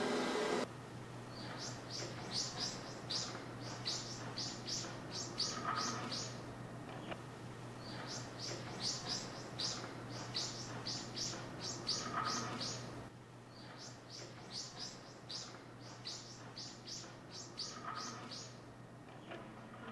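A robot vacuum cleaner's motor hum cuts off within the first second. Then a bird sings three long phrases of rapid, high, short chirps a few seconds apart, each with a lower note near its end, over a faint steady hum.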